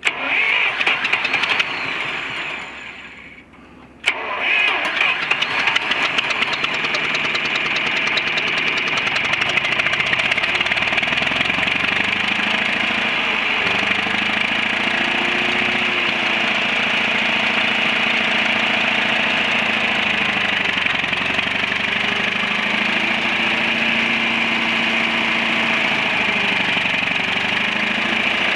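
1969 John Deere 3020 tractor's four-cylinder engine being cranked over for a few seconds, then catching about four seconds in and settling into a steady idle.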